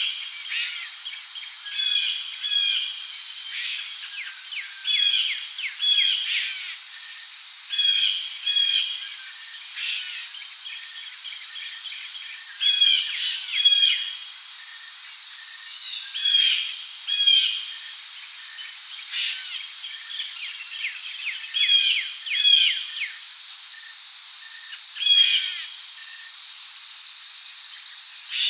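Rainforest ambience: a steady, high insect drone of crickets, with birds giving short chirping calls again and again, every second or two.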